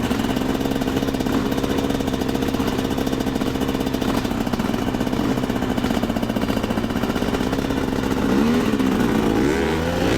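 Two-stroke dirt bike engine idling steadily, then revving up and down a few times about eight seconds in.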